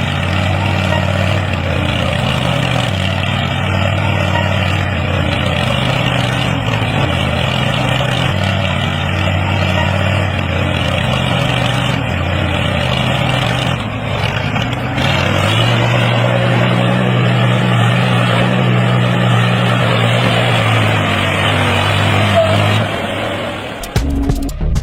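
A motor or engine running steadily, with a low, even hum under a rushing noise. It dips briefly about 14 seconds in and stops shortly before the end.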